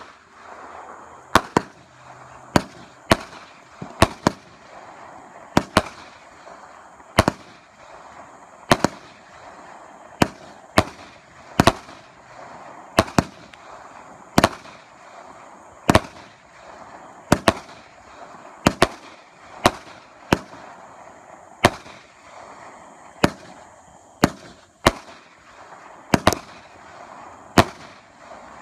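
Aerial fireworks shooting a long, steady run of sharp bangs, about one a second, with a hiss between them.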